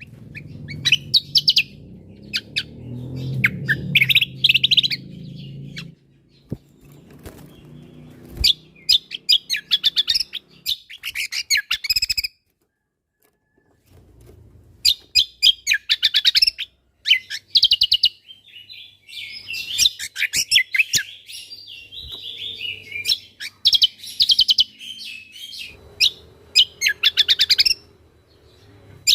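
Cucak kombo (kecial kombo) songbird singing in bursts of rapid, high chirps and trills with short pauses between phrases, and one silent gap about halfway through. A low background rumble runs under the song for the first few seconds.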